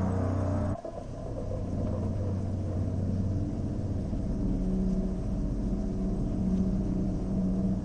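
Background music cuts off abruptly about a second in, giving way to a low, steady rumble.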